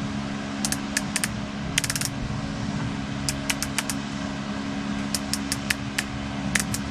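Sharp clicks in small clusters as a click-type torque wrench's adjustment handle is turned, dialling its setting down toward a low torque value, over a steady low hum.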